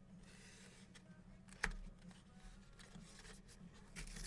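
Faint handling of a cardboard box being pulled apart by hand: soft scattered rustles and clicks, with one sharper snap about a second and a half in, over a steady low hum.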